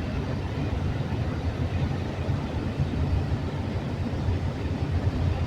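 Steady low vehicle rumble that stays even throughout, with no breaks or sudden sounds.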